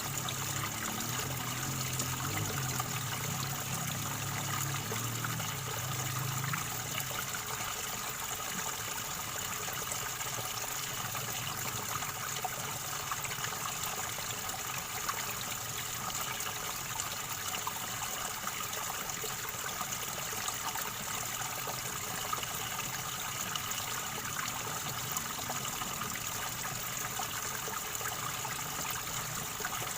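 River water gurgling and trickling steadily.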